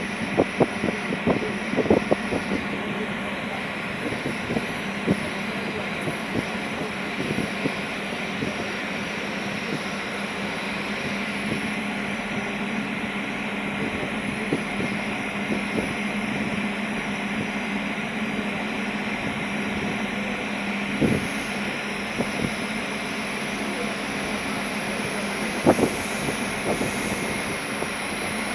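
Ferry's engine running steadily with a low hum under constant noise, with scattered knocks and thumps, several in the first few seconds and a couple more near the end.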